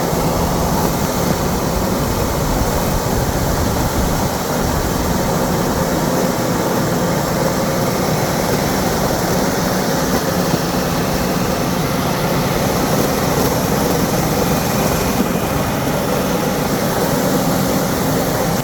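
A vehicle's engine running steadily, with a constant noise of motion over it.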